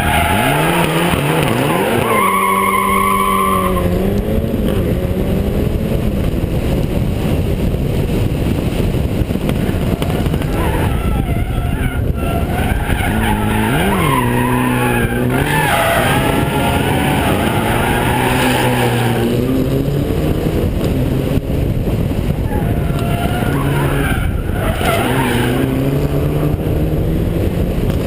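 Car engine revving hard under full throttle for the whole time, its pitch climbing and falling repeatedly with throttle and gear changes as the car is driven sideways through a street-sprint course. A constant rush of wind noise runs under it from the camera's microphone, which is mounted on the outside of the car.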